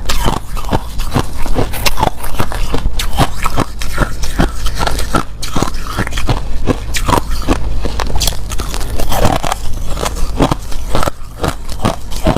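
Crushed clear ice being bitten and crunched in the mouth close to the microphone: a continuous run of sharp, crisp crunches, several a second.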